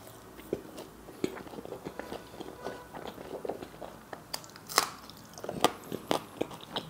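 Close-miked chewing of a mouthful of food, then a few sharp, crisp crunches from about four and a half seconds in as a raw green chilli is bitten into.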